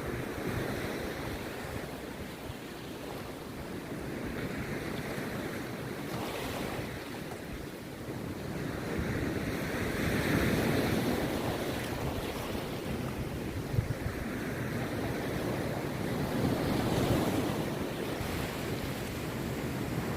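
Rough sea waves breaking on a beach, surging and falling back every few seconds. The biggest surge comes about halfway through.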